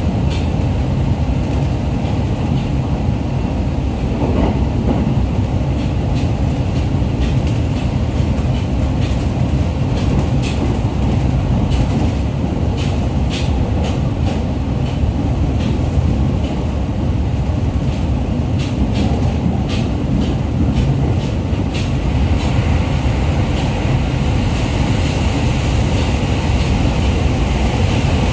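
Running noise inside a JR East E501 series electric train car at speed: a steady low rumble of wheels on rail, with sharp clicks from the track in the middle stretch. Near the end the noise grows brighter and louder as the train enters a tunnel.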